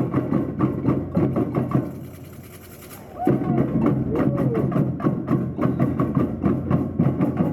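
Samba percussion band playing a fast, dense rhythm of sharp strokes, with rising-and-falling pitched glides over it. About two seconds in the drumming drops away, and it comes back in full about a second later.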